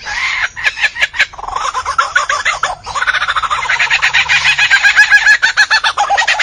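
A bird calling in a rapid chatter of short repeated notes. A few sharp clicks come about a second in, and the calling grows fuller and louder from about halfway through.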